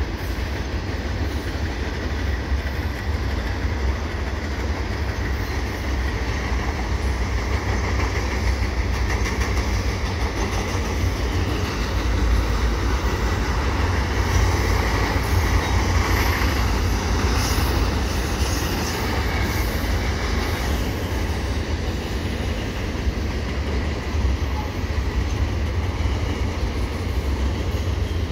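Double-stack container cars of a long CN freight train rolling past: a continuous rumble of steel wheels on rail that swells somewhat louder in the middle.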